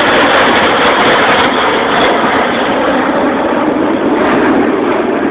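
Jet aircraft passing overhead during a practice pass, a loud, steady rushing noise that eases slightly near the end.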